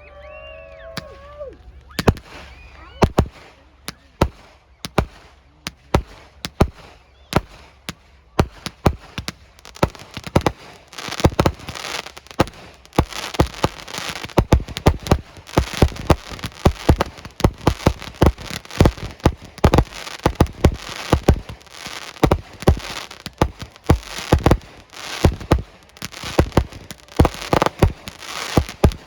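A fireworks display: a long run of sharp bangs starting about two seconds in, coming faster and faster until several go off each second, with crackling between them.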